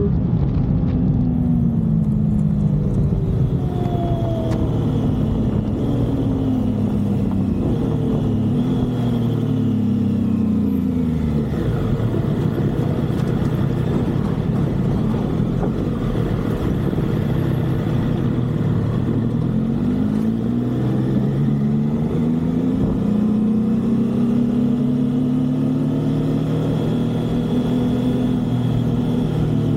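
Motorcycle engine on the move over a steady rush of wind and road noise. Its note falls as the bike slows over the first twelve seconds or so, stays low, then climbs again in several steps from about twenty seconds in as it accelerates.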